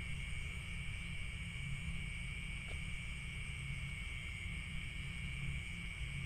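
Steady night chorus of crickets, an unbroken high trilling, over a constant low rumble.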